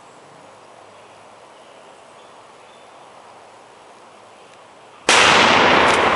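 A steady hiss, then about five seconds in a sudden very loud explosion from a high-explosive charge under a lawnmower, its blast carrying on and slowly dying away.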